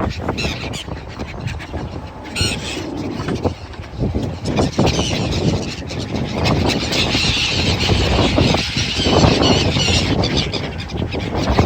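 Seagulls calling over a steady low background rumble, with a short harsh call about two and a half seconds in and repeated high, wavering calls through the second half.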